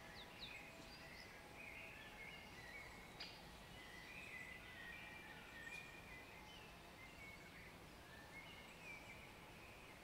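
Faint birdsong: small birds singing and chirping in short phrases over a quiet, steady background hiss, with one brief click about three seconds in.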